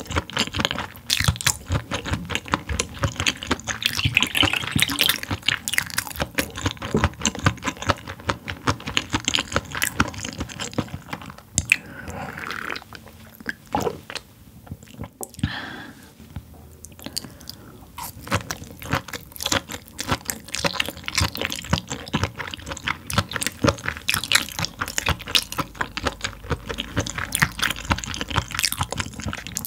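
A person chewing food close to the microphone: dense, irregular wet squishing and crunchy mouth sounds, thinning out for a few seconds around the middle.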